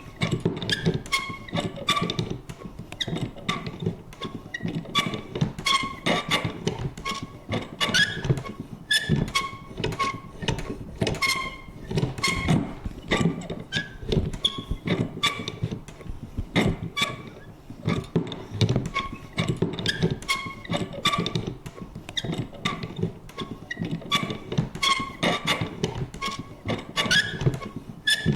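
Vintage paper punch worked over and over: a rapid, uneven run of clicks and knocks, with short high squeaks and creaks from its moving parts.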